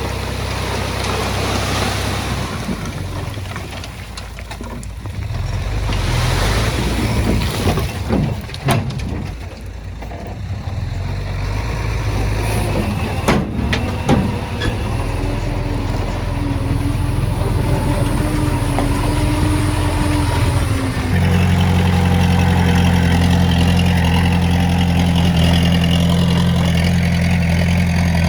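Heavy diesel engine of earth-moving machinery running, with a few sharp knocks in the middle. About three quarters of the way through the engine steps up to a louder, steadier drone.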